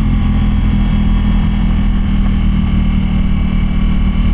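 Motorcycle engine running steadily under way on the road, held at an even speed.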